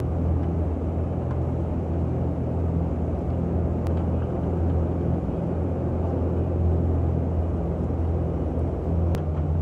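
Steady low engine rumble with a constant deep hum, and two faint clicks, about four and nine seconds in.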